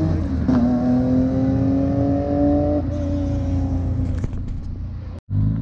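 Rally car engine held at high revs at the start line, its pitch creeping slowly upward, then dropping back and easing off about three seconds in.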